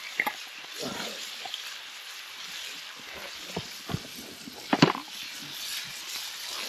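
Chicken cooking in a pan over a campfire: a soft, steady sizzle with scattered clicks and knocks, the sharpest knock a little before the end.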